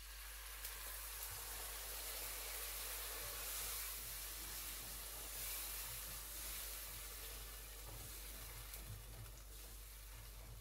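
Onions and ground crayfish sizzling in hot olive oil in a pot as chopped tomatoes are poured in and stirred with a spoon; the sizzle is steady and eases off toward the end.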